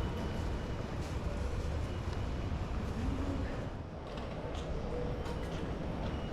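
Busy railway-station concourse ambience: a steady low rumble under a murmur of indistinct voices, with light clicks like footsteps in the second half.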